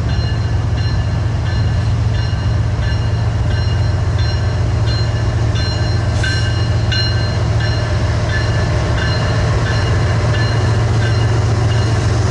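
BNSF intermodal freight train rolling past, with a steady low rumble and regular clicks of wheels passing over rail joints, about one and a half a second.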